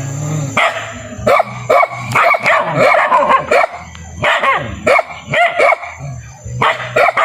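Dog barking repeatedly, short barks coming in quick runs with brief pauses between.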